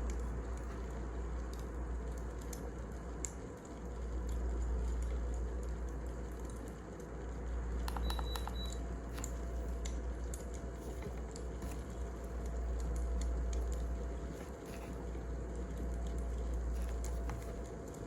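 Wood fire crackling: scattered sharp crackles over a steady low rumble, with a short cluster of clicks and a brief high tone about eight seconds in.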